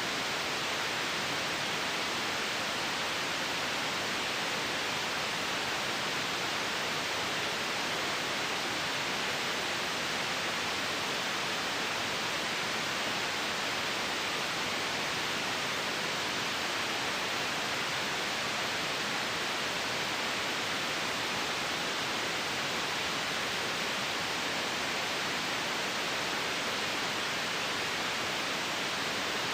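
Steady white noise: an even, unchanging hiss that is strongest in the upper range.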